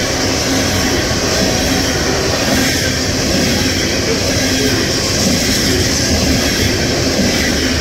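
Coal train hopper cars rolling past at track speed: a steady, loud rumble of steel wheels on the rail, with a faint steady low tone beneath it.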